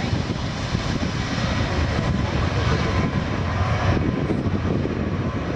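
Boeing 737-800's CFM56-7B turbofan engines at takeoff power: a loud, steady rumble with a strong low end.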